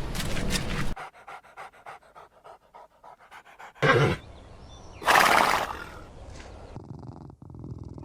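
An animal breathing in quick, faint, rhythmic breaths, with two loud breathy huffs about four and five seconds in.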